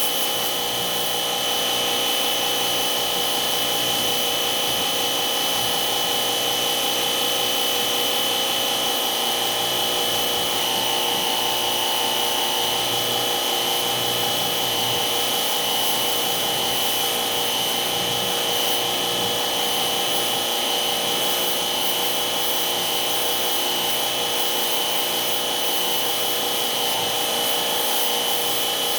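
A small motor running steadily with a high, unchanging whine, with a hiss of noise over it.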